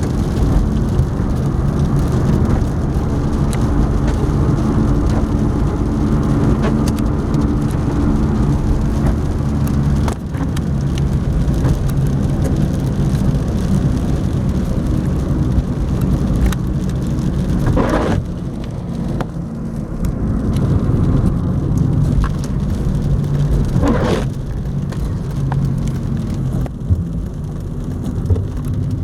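Cabin of a Honda Jazz being driven in the rain: a steady engine and road hum, with rain on the car. A brief swish comes twice in the second half, about six seconds apart.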